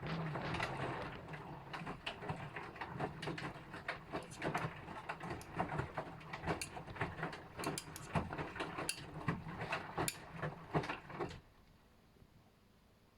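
LG washing machine running a wash: the drum turns with a low motor hum while the laundry tumbles, giving irregular clicks and knocks. It stops abruptly about eleven seconds in.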